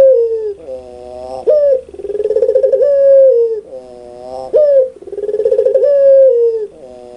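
Puter pelung, a domestic Barbary dove, cooing loudly in its 'laughing' song. Each phrase is a sharp rising note, a long rolling coo and a lower drawn-out note, repeated about every three seconds.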